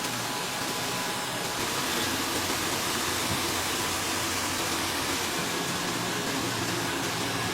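Computerized sock-knitting machines running, a steady mechanical noise with faint humming tones.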